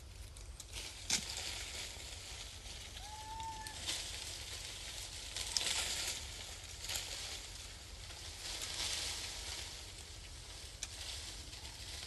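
Intermittent rustling and crackling that swells and fades several times, with a few sharp clicks and one short arched chirp about three seconds in.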